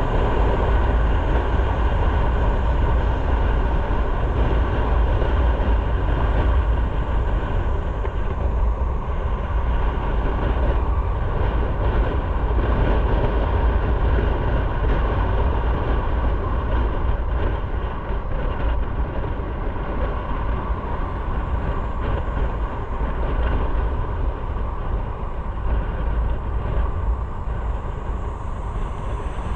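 Motorcycle on the move: steady engine and road noise under a heavy low rumble of wind on the microphone.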